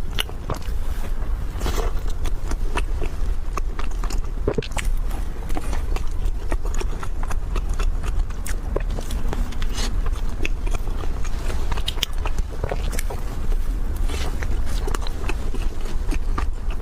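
Close-miked eating: biting into and chewing a soft chocolate-coated dirty bun (zangzang bao), with many small irregular wet mouth clicks over a steady low hum.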